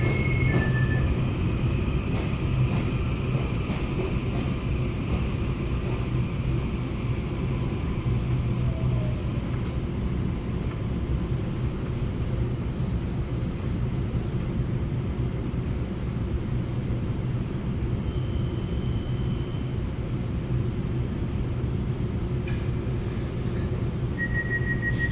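Steady rumble of a Taiwan Railway EMU900 electric multiple unit running along the line, heard from inside the carriage. Alternating high electronic tones end about a second in, and a steady high tone starts near the end.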